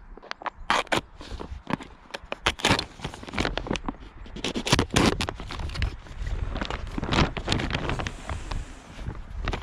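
Irregular crackling, rustling and knocks from hands-on work with greenhouse plastic sheeting being put up.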